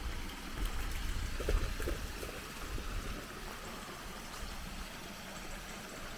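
Creek water running and trickling steadily over flood debris, with a low rumble on the microphone that fades after about three seconds.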